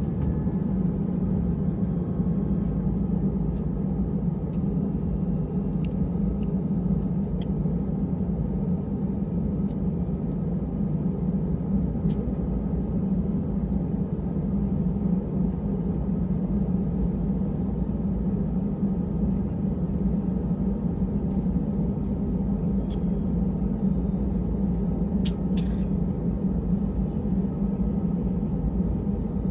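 Steady low rumble of an Airbus A320 cabin with the engines running at low power on the ground, with a few faint ticks now and then.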